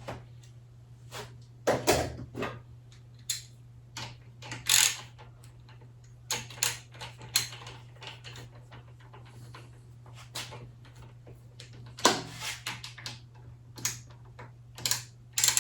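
Irregular clicks, clinks and light knocks of small metal tools and parts being handled, over a steady low hum.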